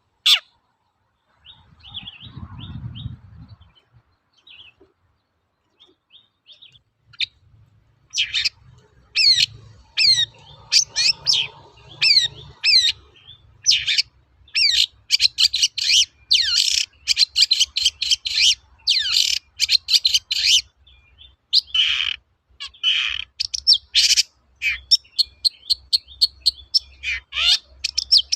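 Long-tailed shrike (cendet) singing a rapid, varied song of sharp chirps and harsher buzzy notes. The song starts sparse and becomes a near-continuous run from about eight seconds in. A short low rumble comes about two seconds in.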